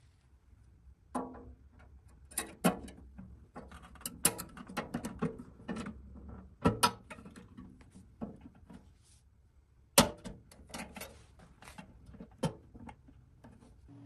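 Irregular clicks and knocks of small parts being handled and fitted by hand, with a few sharper knocks, the loudest about ten seconds in.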